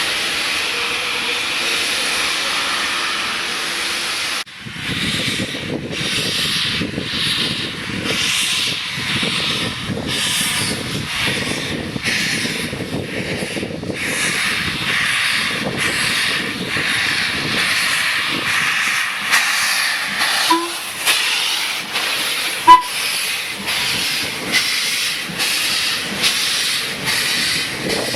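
Steam locomotive hissing steadily, then working with a regular exhaust beat of about two chuffs a second over continuing steam hiss. A couple of brief sharp sounds come in the second half, the loudest a little past the middle.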